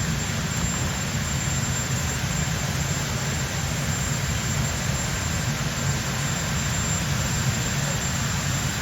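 Steady low rumble with an even hiss above it, heard while cycling through city streets: wind and road noise on the camera.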